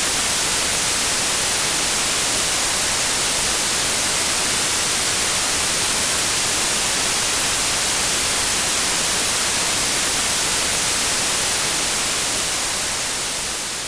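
Steady white noise, an even hiss strongest in the high end, beginning to fade out near the end.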